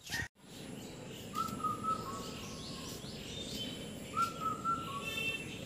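Birds calling over a steady outdoor background hiss: a long, level whistled note twice, with a short run of high chirps near the end.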